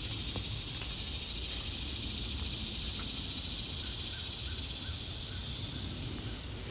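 Steady high-pitched drone of an insect chorus in summer woodland, with a low rumble underneath and a short run of faint, evenly spaced chirps in the middle.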